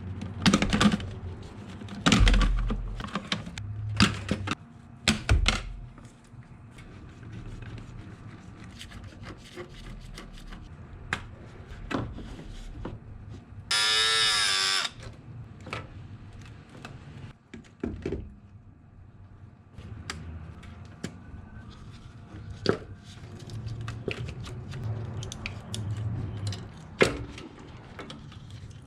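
Scattered clicks, knocks and clatter of hand tools and engine parts being handled during ignition coil removal, with a short steady whir of a power tool about halfway through.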